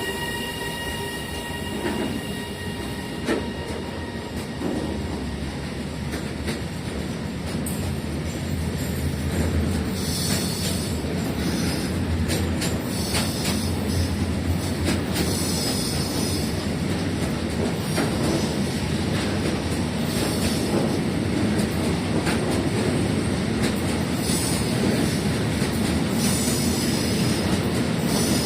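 A train running past, its deep rumble of wheels on rails growing slowly louder, with a few sharp clicks early on and repeated high-pitched hissing bursts from about a third of the way in. A horn note dies away at the very start.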